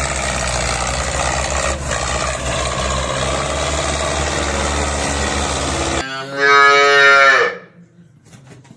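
A steady engine running for about six seconds, then cut off abruptly. A cow then moos loudly once, the call falling in pitch at its end.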